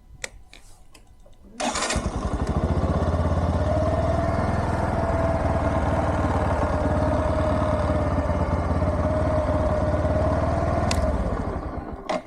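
Bajaj Platina 100 motorcycle's single-cylinder engine starting suddenly a moment in, idling steadily for about nine seconds, then switched off and running down near the end, with a sharp click just after.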